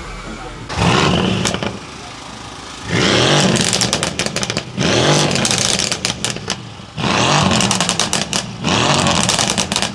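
Mercedes-AMG C63's tuned twin-turbo V8 being revved in about five short blips, each followed by a rattle of pops and crackles as the revs drop.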